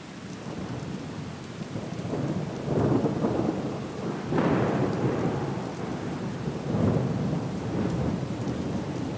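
Steady rain with rolling thunder. Rumbles swell up about three seconds in, again around four and a half seconds, and once more near seven seconds.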